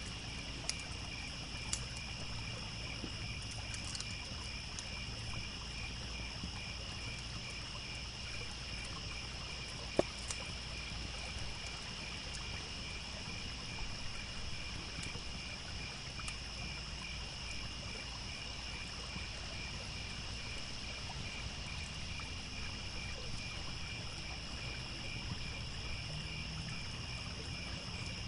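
Crickets chirping in a steady, evenly pulsing chorus, with a few sharp pops from a crackling campfire, about a second and ten seconds in, over a low, even rush of a trickling stream.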